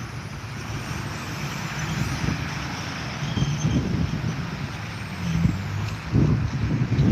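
Jet engine noise, a steady rushing with a faint high whine that slowly falls in pitch. Wind buffets the microphone in low gusts that grow stronger near the end.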